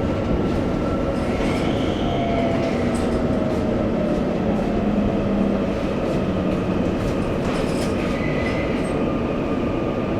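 Running sound inside a Taiwan Railways EMU800 electric multiple unit: a steady rumble of wheels on rail, with faint motor tones underneath.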